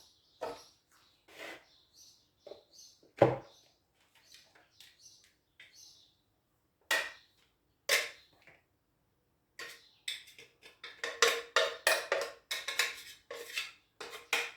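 Kitchenware handled while baking: a few separate knocks and clinks, then a quick run of repeated strokes from about ten seconds in.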